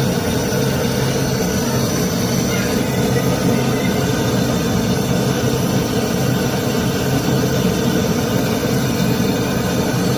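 Gas brazing torch flame burning with a steady, unbroken hiss while the refrigerator's filter drier joint is brazed.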